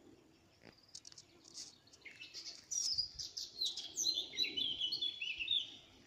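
A songbird singing in the forest: a few short high chirps, then from about two seconds in a long song of quick notes stepping down in pitch, lasting about three and a half seconds.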